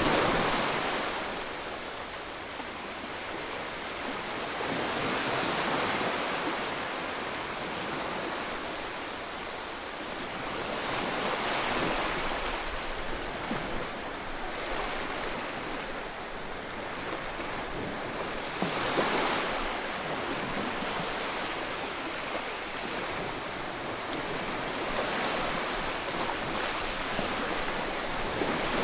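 Sea waves breaking and washing ashore, a steady rush of surf that swells every few seconds, loudest about two-thirds of the way through.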